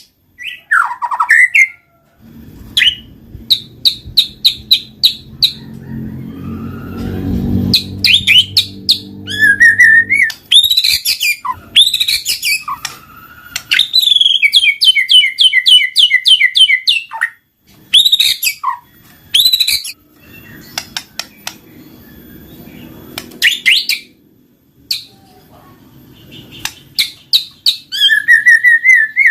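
White-rumped shama (murai batu) singing a loud, varied song of clear whistles, sweeping notes and fast runs of repeated chattering notes, with short pauses between phrases.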